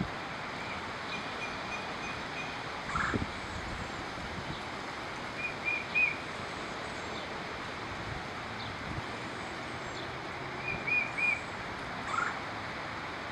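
Tufted titmouse calling: short clear whistled notes in quick groups of three, heard twice, with a few lower falling notes between them, over a steady background hiss.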